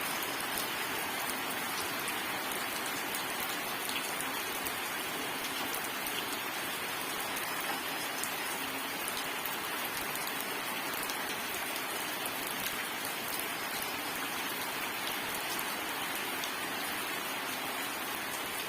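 Steady rain falling on a surface, with a dense patter of individual drops and no thunder.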